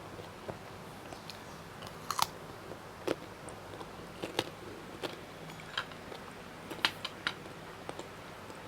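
Close-miked chewing and biting of crunchy food, with irregular sharp crunches every second or so, the loudest about two seconds in and again near the end.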